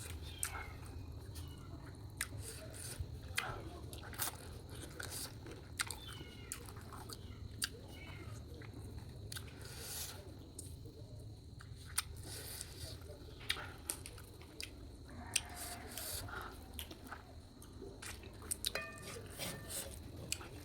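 Chewing and biting on masala chicken curry, with many irregular sharp mouth clicks and the occasional crunch.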